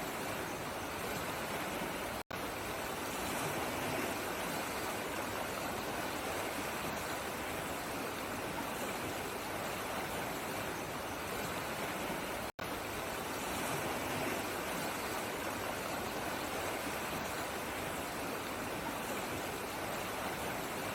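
Running water of a flowing stream, a steady even rush that drops out to silence for an instant twice, about two seconds in and again around twelve and a half seconds in.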